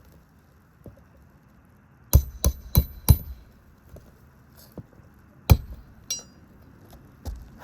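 Hammer strikes nailing a roof shingle back down: four quick blows about a third of a second apart, then a single hard blow a couple of seconds later, with lighter taps between.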